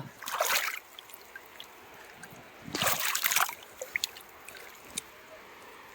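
Shallow water on a tidal mudflat splashing and trickling in two short bursts, one just after the start and one about three seconds in, with a few small clicks between.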